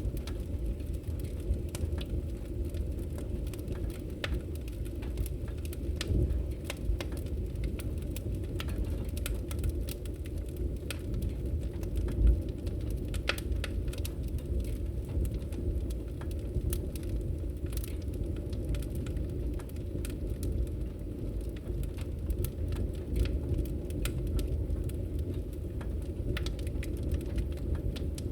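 Wood logs burning in a fireplace: a steady low rumble of the flames with irregular crackles and pops, one louder pop about halfway through.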